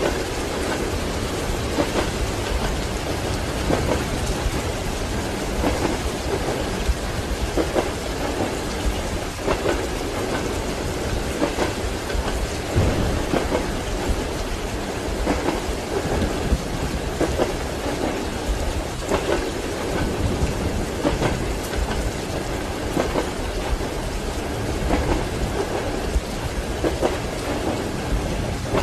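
Steady rain with a low, rolling thunder rumble, and the clack of train wheels over rail joints heard in the background every second or two.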